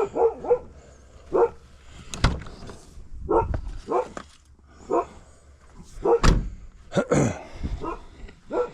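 A dog barking repeatedly, about a dozen short barks at an irregular pace, with a couple of thuds among them.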